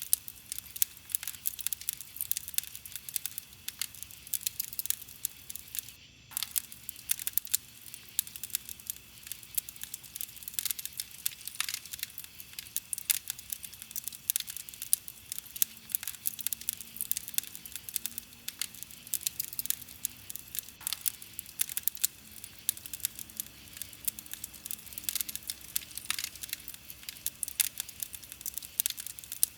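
Wood campfire crackling and popping: a dense, steady run of small sharp crackles, many a second, with a momentary break about six seconds in.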